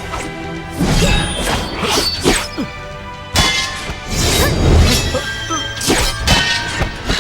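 Fight-scene soundtrack: dramatic music under a rapid series of sword-fight effects, with clashing blows, whooshes and hits, several of them loud, starting about a second in.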